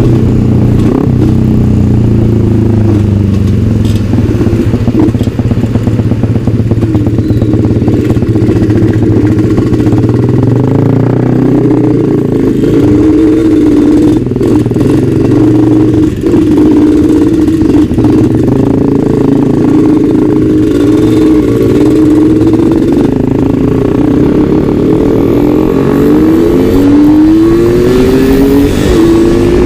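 Two-stroke Suzuki Satria motorcycle engine running on the road at a steady pace, with its pitch rising several times near the end as it revs up through the gears.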